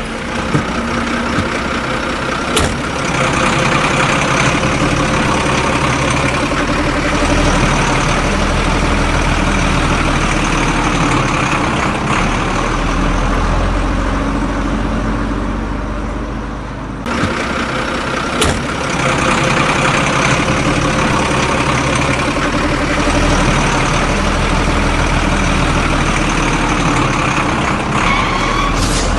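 Heavy diesel engine of a backhoe loader or tractor running steadily, with a brief drop about two-thirds of the way through before it carries on.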